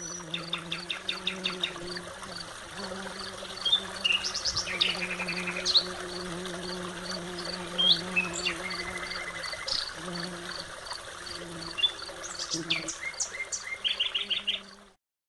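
Outdoor ambience of several small birds chirping and trilling in short phrases, over an insect's steady high pulsing about three times a second and a low hum.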